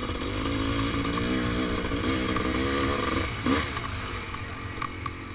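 Kawasaki KX500's single-cylinder two-stroke engine revving, its pitch wavering up and down with the throttle, with one sharp rev about three and a half seconds in before it drops lower and quieter.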